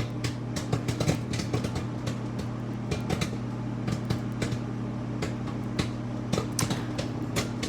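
A bag of microwave popcorn popping inside a running microwave oven: irregular sharp pops, several a second, over the oven's steady hum. The popping is still frequent, so the corn is still cooking.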